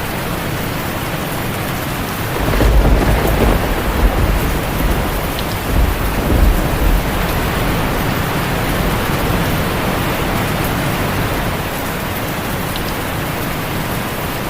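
Heavy rain falling steadily on a tin roof, with a long rolling rumble of thunder that builds a couple of seconds in and dies away by about halfway.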